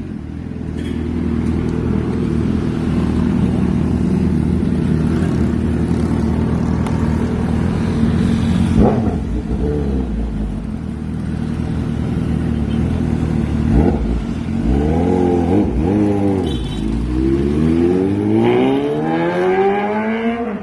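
Suzuki GSX-S750's inline-four engine idling steadily through newly installed custom headers and midpipe, with a couple of brief throttle blips. Near the end come two quick revs, then a longer rev that climbs steadily in pitch.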